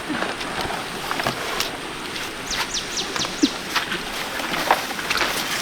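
A bird calling a quick run of about five falling high notes about two and a half seconds in, over a steady noisy outdoor background with scattered knocks and clicks.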